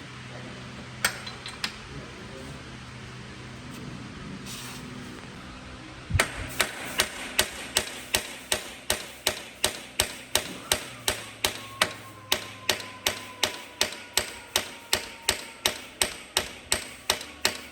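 Hammer blows on metal, starting about six seconds in and repeating steadily at about two and a half strikes a second, each with a short metallic ring. Before that there is a quieter stretch with a couple of single taps.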